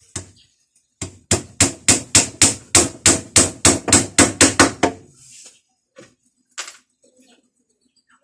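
Hammer striking: one blow, then a quick steady run of about four blows a second for some four seconds, followed by a couple of lighter knocks.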